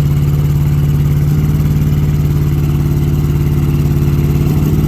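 A vehicle engine running steadily at a near-constant pitch, its note shifting slightly about a second in and again near the end.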